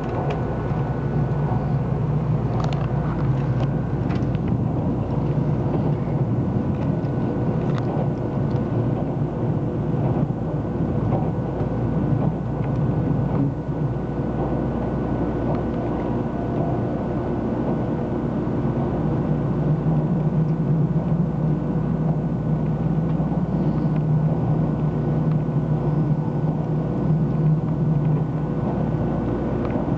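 Steady interior running noise of a 300 Series Shinkansen car, heard from inside the cabin: a continuous low rumble of the train on the track with steady humming tones, and a few faint clicks in the first ten seconds.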